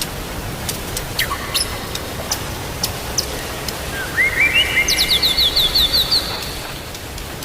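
Songbird singing, likely a white-rumped shama: a few rising whistled notes about halfway through, then a quick run of about eight short, falling high notes. Under it is a steady low background hiss with scattered faint clicks.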